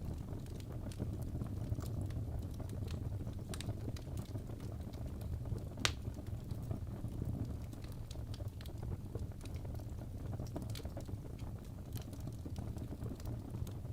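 Wood fire burning in a fireplace: a steady low rumble of flames with scattered sharp crackles and pops from the burning logs, one louder pop about six seconds in.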